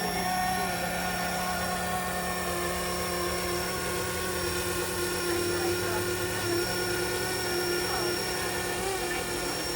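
500-size radio-controlled helicopter (FLISHRC FL500 A109) in flight, its motor and rotors giving a steady whine.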